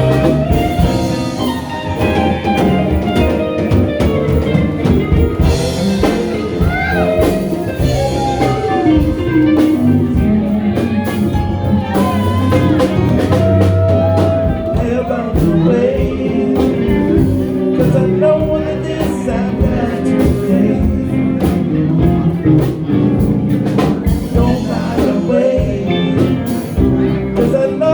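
A band playing a blues-style number, with guitar over a steady drum kit.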